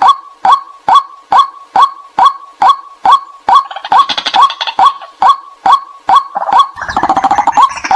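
White-breasted waterhen calling: a sharp, slightly falling note repeated steadily about twice a second. From about halfway through, a rougher layer of overlapping calls joins it, and near the end a dense, louder jumble swells over the repeated note.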